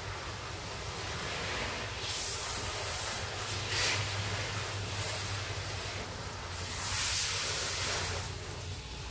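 Hissing, spray-like noise coming in several bursts of a second or so, with a steady low hum underneath.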